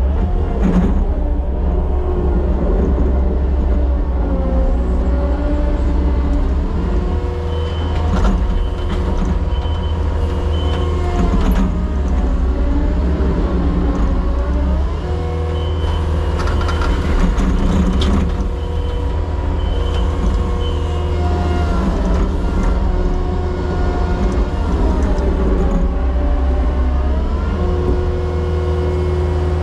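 Diesel engine of a construction machine running steadily, its note dipping and recovering several times as it works.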